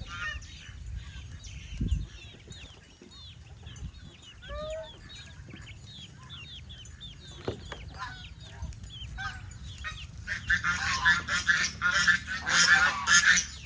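Domestic geese honking, the calls growing louder and denser from about ten seconds in, over a steady run of short high peeping chirps. There is a low thump about two seconds in.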